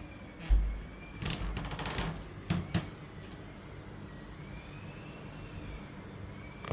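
A heavy low thump about half a second in, then about a second of rustling and two quick knocks, over a faint wavering high whine.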